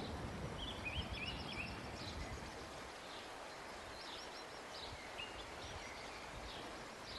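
Small songbirds chirping and twittering, many short calls in quick succession, over a faint low outdoor background noise that eases after about three seconds.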